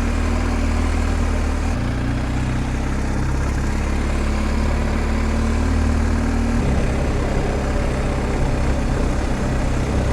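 BMW R1250 GS Adventure's boxer-twin engine running at low road speed. Its note changes twice, about two seconds in and again just under seven seconds in, over a steady rush of riding noise.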